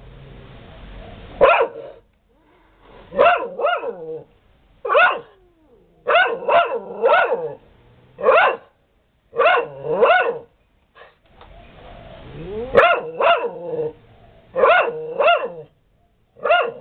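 Dog barking repeatedly, in quick groups of one to three barks with short pauses between.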